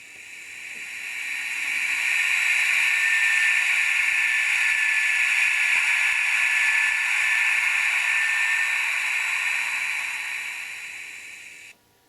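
Recorded fan (Lüfter) sound of a Minitrix N-scale BR 101 electric locomotive's sound decoder, played through the model's small speaker: a steady hiss that swells in over about two seconds, holds, then fades and cuts off shortly before the end.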